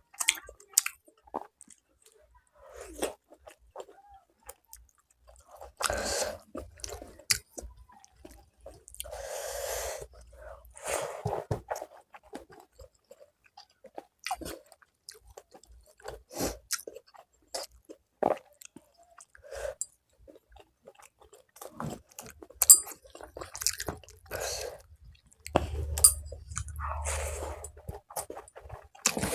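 A person chewing and eating rice with fish curry, Bengali macher jhol and fried fish oil, close to the microphone: irregular wet mouth smacks, clicks and crunching bites.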